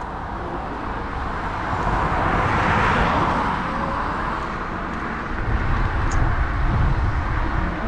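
Road traffic: a passing vehicle's noise swells to a peak about three seconds in and fades, then a low, uneven rumble builds from about five seconds in.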